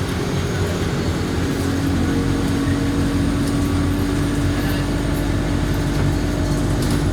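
Alexander Dennis Enviro200 bus's diesel engine running steadily, with a steady whine coming in about a second and a half in and holding.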